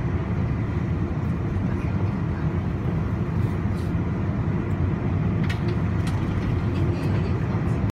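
Steady low rumble of a Puyuma electric express train passing through the station, with a few faint clicks.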